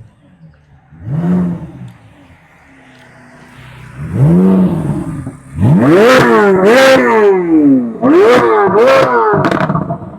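Car engine being revved: a couple of short blips, then two long hard double revs whose pitch climbs and falls, with sharp exhaust cracks at the peaks.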